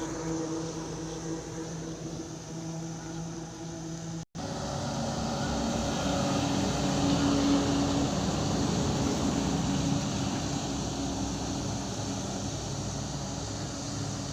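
Heavy truck engine running with road and tyre noise. There is a split-second gap about four seconds in, after which the engine and road noise are louder.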